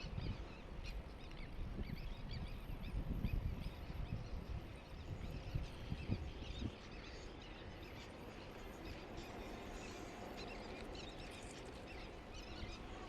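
Outdoor background noise with uneven low wind rumble on the microphone that eases after about seven seconds into a steadier hiss, with faint high chirps scattered through it.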